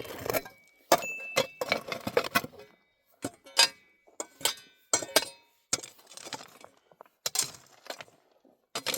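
Hard objects clinking and knocking together in an irregular series of sharp strikes, some leaving a short ringing tone, with brief pauses between groups.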